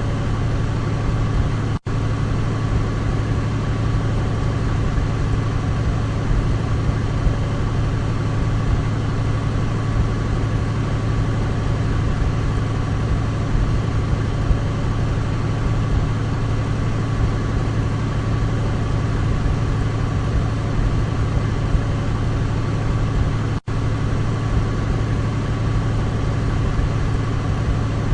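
Douglas DC-3's twin radial piston engines running in a steady, even drone with a strong low hum. The sound cuts out for an instant twice, about two seconds in and again some twenty seconds later.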